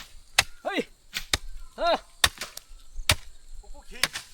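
Repeated sharp chopping strikes at uneven intervals, about one a second, with a few short shouted exclamations between them.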